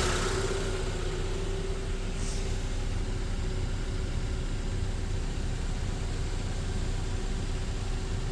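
2008 Honda Accord's 2.4-litre four-cylinder engine idling steadily, with a constant low hum.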